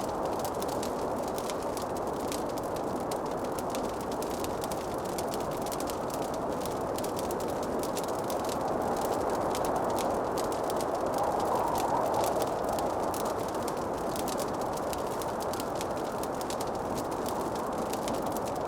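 Fireplace fire crackling with frequent small pops over a steady low rushing noise that swells a little midway.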